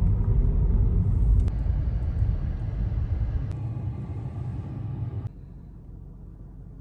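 Car engine and exhaust rumbling, loud and low, then dropping to a quieter rumble about five seconds in.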